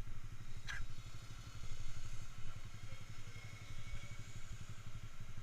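Yamaha Jupiter MX single-cylinder four-stroke running steadily on the move through an aftermarket DBS exhaust, a low pulsing engine note. A brief high chirp comes a little under a second in.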